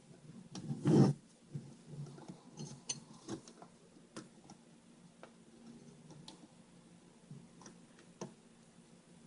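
Small clicks and knocks of hand tools and a circuit board being handled while capacitors are desoldered from a TV power board, with one louder knock about a second in, over a faint steady hum.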